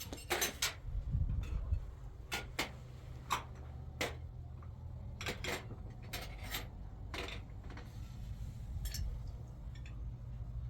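A series of light, irregularly spaced knocks and clinks, about a dozen, over a low steady hum.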